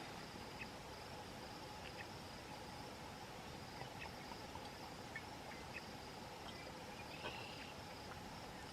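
Insects trilling steadily in a quiet evening background, with a few faint small clicks.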